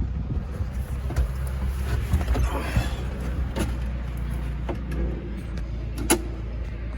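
Farm tractor engine running steadily, with scattered knocks and clatters and a brief rushing noise about two to three seconds in.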